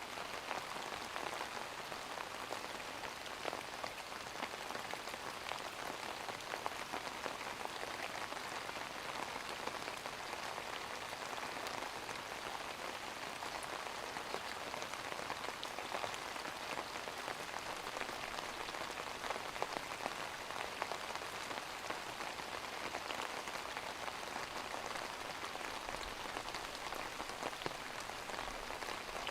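Steady rain falling on a hard surface, a continuous patter of many small drops.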